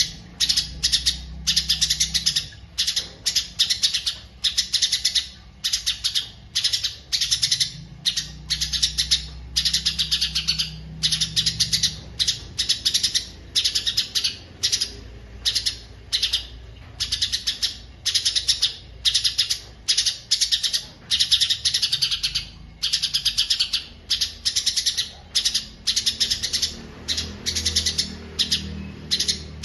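A songbird singing in quick, dense phrases of high chattering notes, one after another with short gaps. The song begins abruptly.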